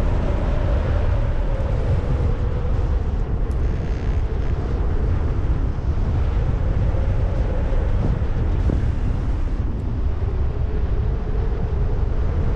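Strong wind buffeting the microphone of a helmet action camera during a paraglider flight: a steady, heavy low rumble with a faint steady tone running underneath.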